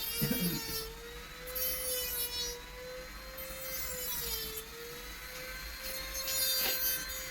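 A small electric motor running steadily with a humming tone that wavers slightly in pitch, joined a few times by a higher whine.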